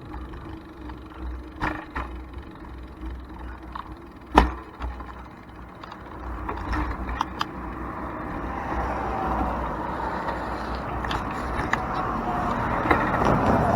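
Road traffic on a four-lane road heard from a moving bicycle, with a low steady rumble and a vehicle's noise swelling over the second half. Scattered clicks and one sharp knock about four seconds in.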